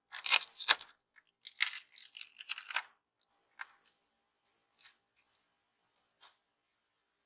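Scratchy scraping or tearing noises in several short bursts over the first three seconds, followed by a few light clicks and taps, as materials are handled at a modelling workbench.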